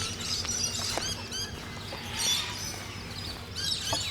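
Dawn chorus of many small birds chirping and calling together in short, quickly gliding notes, thickest about two seconds in and again near the end.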